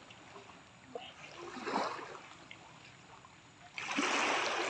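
Faint background with a few distant voice-like sounds, then about four seconds in a sudden loud rush of water begins and keeps going.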